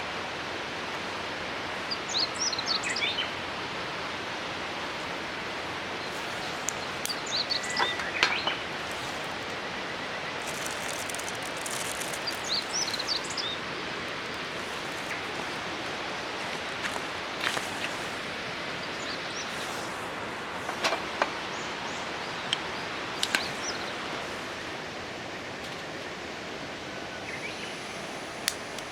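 Steady rushing of river water with occasional short bird chirps and a few sharp clicks.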